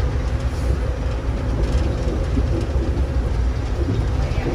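Airport people-mover train running along its guideway, heard from inside the car: a steady low rumble with a few faint ticks.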